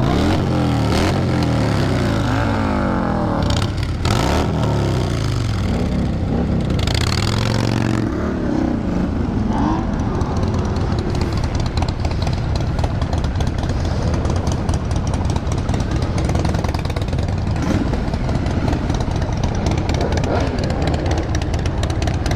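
Several vehicle engines revving at once, their pitches rising and falling and overlapping, for about the first eight seconds. After that comes a steady, dense engine rumble with wind-like noise, as of the group riding.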